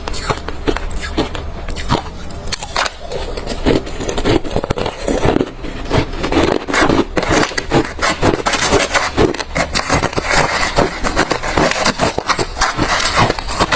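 Close-miked crunching of refrozen crushed ice being chewed: a dense, continuous run of sharp cracks and crackles.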